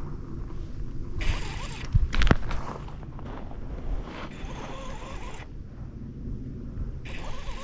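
Spinning reel's drag giving line in three bursts of about a second each as a hooked fish pulls against it, with two sharp knocks from handling the rod a little after two seconds in.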